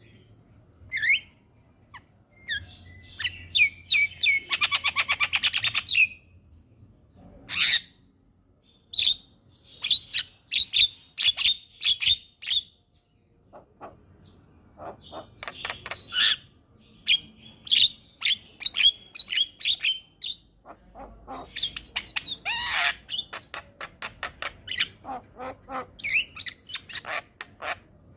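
Javan myna (jalak kebo) singing a varied song of sharp whistles, chirps and harsh chattering notes. A fast buzzy rattle comes about four seconds in, and a dense stretch of chatter follows about two-thirds of the way through.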